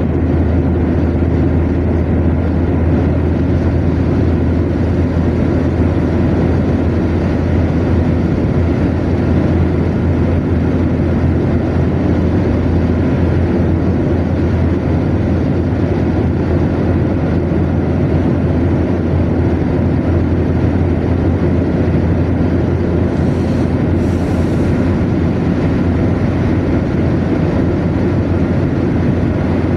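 Car cruising at steady motorway speed: even tyre and road noise over a low, steady rumble.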